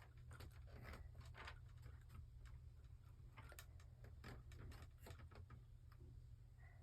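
Faint, irregular clicks and taps of plastic Lego bricks and pieces being handled and fitted together, several a second, over a low steady hum.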